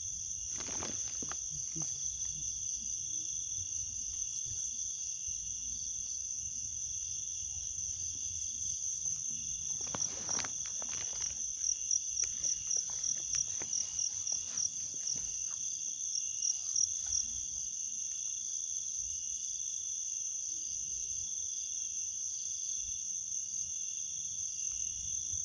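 Night chorus of insects such as crickets: a steady high-pitched trill, with a louder, faster pulsing chirp rising over it for a few seconds about halfway through. A few soft knocks come near the start and around ten seconds in.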